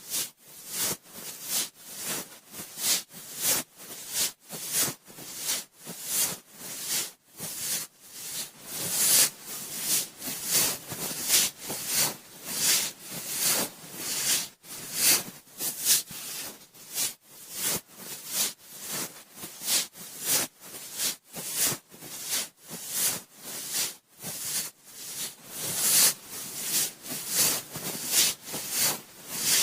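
Cotton swab swirling and rubbing inside the ear of a binaural microphone: a continuous run of close, scratchy rubbing strokes, about two a second.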